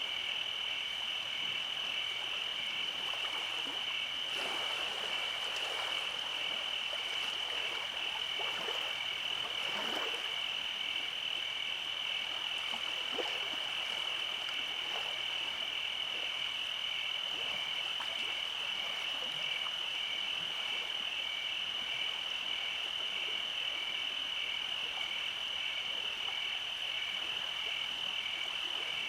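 Summer night chorus of frogs and insects: a steady high-pitched trill with a second call pulsing regularly just below it, and faint scattered clicks in the first half.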